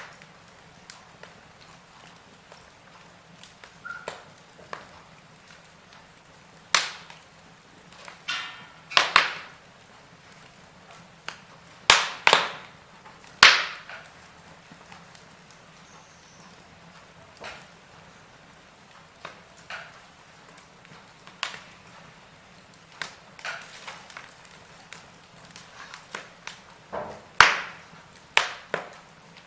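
Wood fire burning in a fireplace, crackling with irregular sharp pops, a few of them much louder, over a faint steady hiss.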